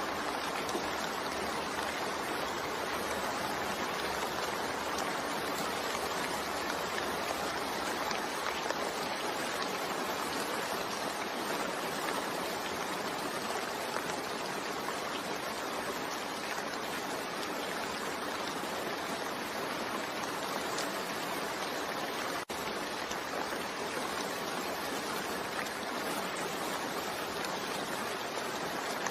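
Steady rain falling, an even hiss of many drops with no single drop standing out. About three-quarters of the way through the sound drops out for a split second.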